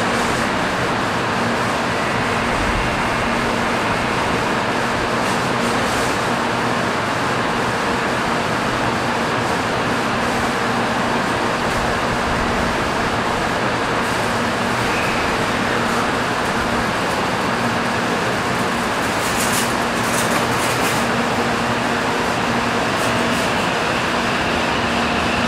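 N700 series Shinkansen trainset standing at the platform with a steady hum, then starting to roll slowly out of the station near the end.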